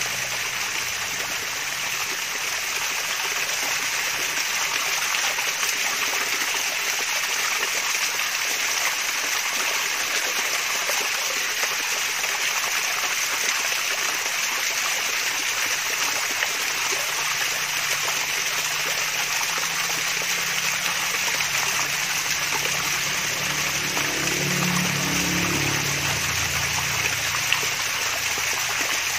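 Water from a mini waterfall trickling and splashing in a steady, even rush.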